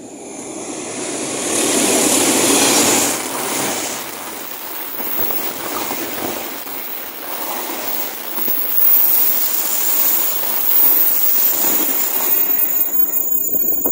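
Train passing at speed: a loud rushing rumble of wheels and carriages on the rails that builds about two seconds in and then holds, swelling unevenly.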